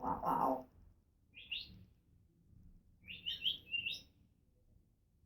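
African grey parrot chirping: a short voice-like sound at the very start, one high chirp about a second and a half in, then a quick run of four or five high chirps a little later.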